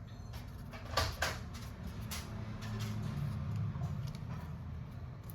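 A few light clicks and taps, the sharpest about a second in, over a steady low hum.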